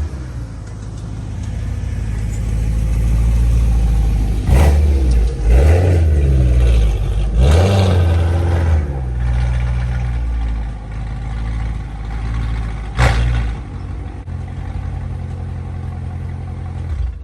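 BMW E92 M3's V8 running through a catless X-pipe and Borla ATAK cat-back exhaust, with a steady low drone broken by quick revs about four and a half, six and eight seconds in and a short one about thirteen seconds in.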